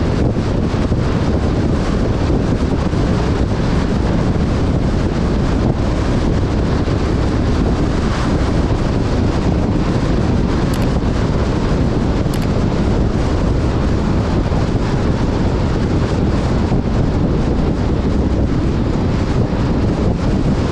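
Heavy wind buffeting the action camera's microphone while a vehicle drives over desert sand, a steady low rumble.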